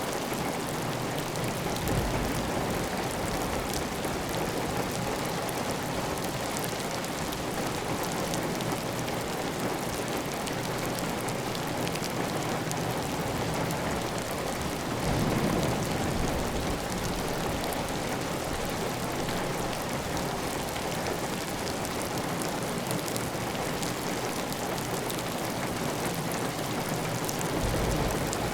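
Steady heavy rain on a clay-tile roof, a dense even patter with water running off the roof edge. A few brief low swells come and go, about 2 seconds in, around the middle and near the end.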